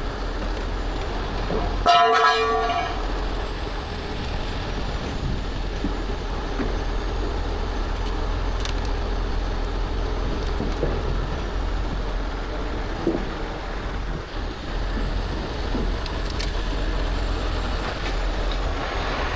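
A heavy truck's diesel engine running steadily, with one short horn blast lasting about a second, about two seconds in.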